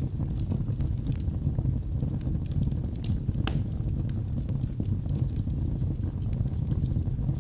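Wood fire burning in a fireplace: a steady low rumble of flames with irregular sharp crackles and pops of the burning wood, one louder pop about halfway through.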